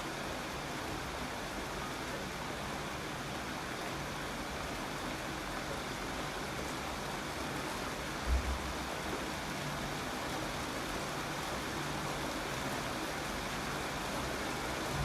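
Steady rain falling, an even hiss, with one brief low thump about eight seconds in.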